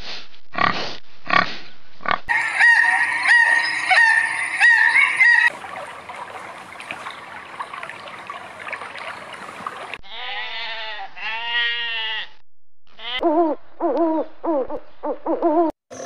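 Animal sounds in quick succession: a few short pig grunts, then a high, pulsing squeal. A stretch of steady water-like noise follows, then two long rising-and-falling calls and a run of short repeated calls.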